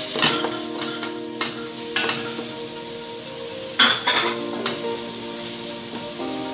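Wooden spatula stirring and scraping flour, butter and diced carrots and bell pepper around a stainless steel pot while the butter sizzles, cooking the flour into a roux for a white sauce. Sharper knocks of the spatula on the pot come every second or so, with a cluster about four seconds in.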